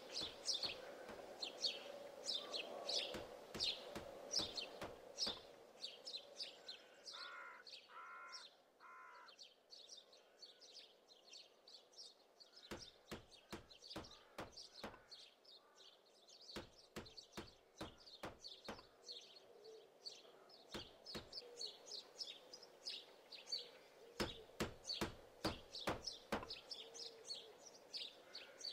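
Birds chirping: quick, short, high chirps repeating several times a second, over sharp clicks and a faint steady hum, with three short lower-pitched notes about eight seconds in.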